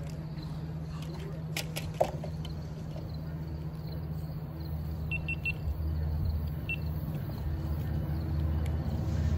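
Low, steady diesel train rumble that slowly grows louder, with one sharp click about two seconds in and a few faint short high beeps a little past the middle.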